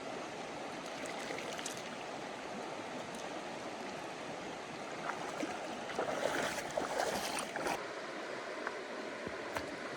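Running water with a steady rush, and a burst of splashing about six seconds in that lasts a second or two.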